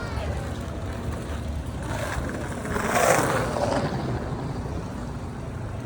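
A motor vehicle passes, its noise swelling to a peak about three seconds in and then fading, over a steady low rumble of wind and road noise.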